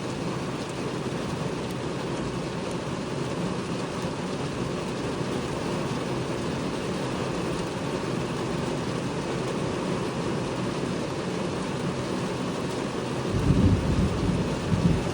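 Heavy rain pouring steadily in strong wind. About thirteen seconds in, a louder low rumble rises and lasts nearly two seconds.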